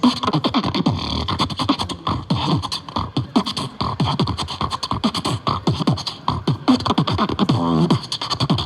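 Human beatboxing: an unbroken, fast stream of vocal drum sounds, quick falling bass kicks and sharp clicks, with a short wavering pitched note near the end.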